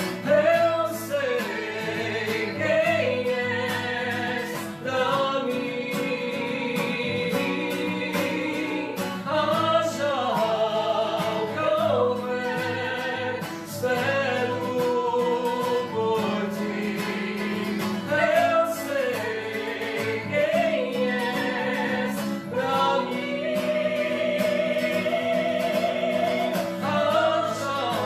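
A high solo voice sings long, wavering held notes that glide between pitches, over acoustic guitar accompaniment: a live vocal and guitar performance.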